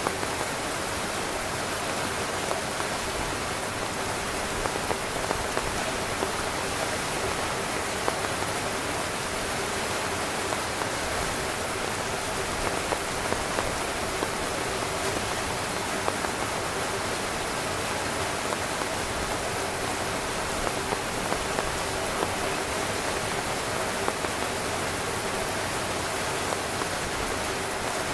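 Heavy rain drumming steadily on a tent, a dense hiss with many individual drops pattering through it.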